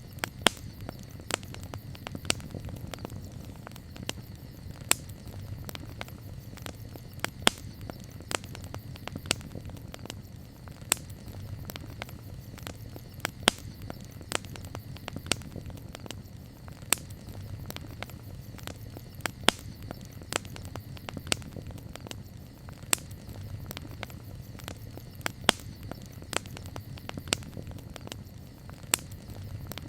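Campfire burning: a steady low rumble of the flames with frequent sharp, irregular crackles and pops from the wood.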